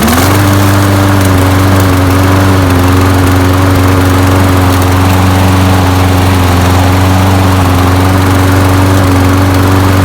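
Snapper self-propelled mower's small engine running steadily at speed, coming up to speed in the first moment. It starts and runs without priming now that its clogged main jet has been cleaned and its stuck automatic choke freed.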